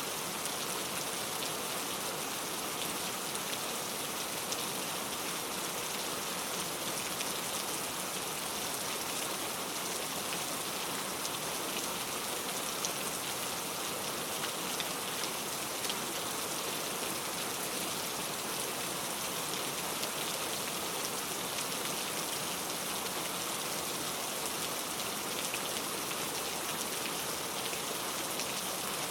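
Steady heavy rain with no thunder: a dense, even hiss of rain falling on a surface, with many small individual drop ticks.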